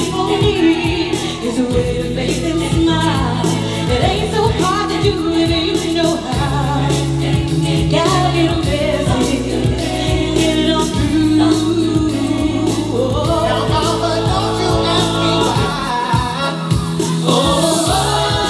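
Music: a group of singers in harmony over sustained bass notes and a steady drum beat, from a live vocal-group medley show.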